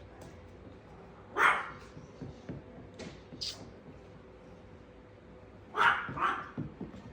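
A dog barking: one loud bark about a second and a half in, two fainter, higher sounds around the middle, and two loud barks close together near the end.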